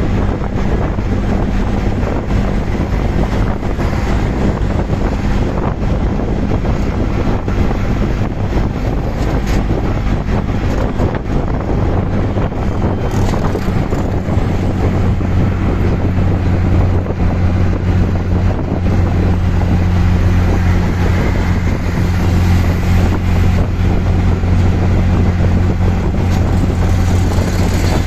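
Auto-rickshaw engine running steadily while under way, with road noise and wind on the microphone; its low hum grows stronger about halfway through.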